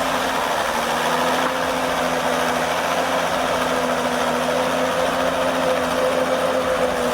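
An engine running steadily at a nearly constant pitch that creeps slightly upward.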